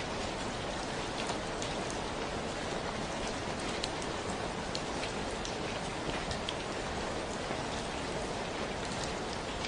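Steady rainfall: an even hiss of rain with scattered sharp ticks of individual drops hitting a surface.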